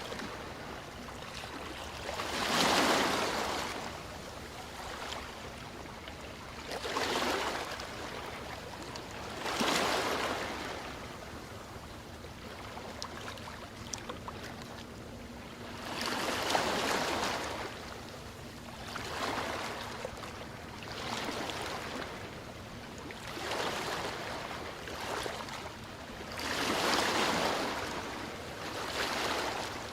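Ocean surf washing in: a swell of wave noise rises and falls every two to four seconds, about nine times, over a steady wash of water.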